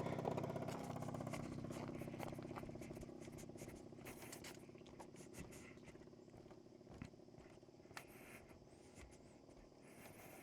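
SYM Jet2 50 two-stroke scooter engine idling, fading away over the first few seconds, followed by faint scattered clicks and rustles.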